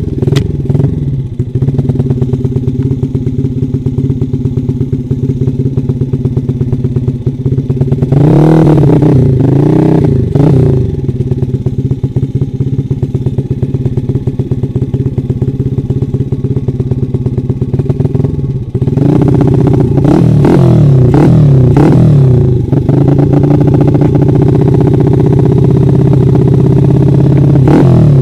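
Dirt bike engine running steadily at low revs, with bursts of revving about eight seconds in and again from about nineteen seconds, where it holds at higher revs.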